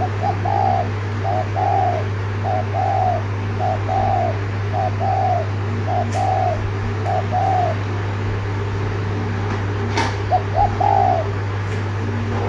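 Spotted dove giving the repeated 'thúc gù' coo: a run of short two-part coos, about one a second, for roughly seven seconds. After a pause, a sharp click and then three quick coos. A steady low hum runs underneath.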